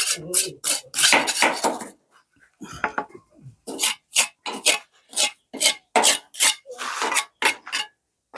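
Hard objects clattering and scraping in a quick, irregular series of sharp strikes, with a short lull about two seconds in.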